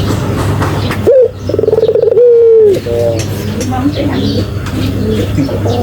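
Puter (Barbary dove) cooing. There is a short coo about a second in, then one long drawn-out coo that dips in pitch at its end, then a shorter trailing coo. A steady low hum runs underneath.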